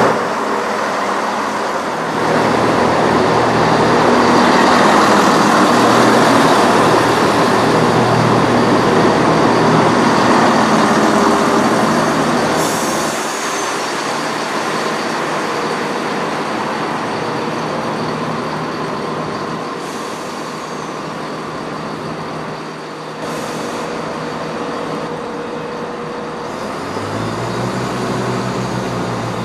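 A diesel multiple unit running past close by, its wheel, rail and engine noise loud for about the first twelve seconds and then easing, with three short hisses along the way. Near the end the steady tone of another diesel unit's engines, a Class 170 Turbostar, comes in as it approaches.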